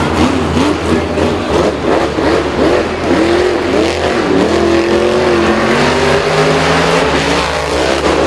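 Engines revving, their pitch rising and falling repeatedly, with several engine tones overlapping.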